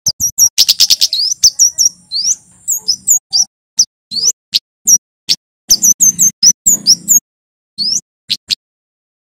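Male kemade flowerpecker singing: quick bursts of thin, sharp high notes and short rising chirps, broken by brief pauses.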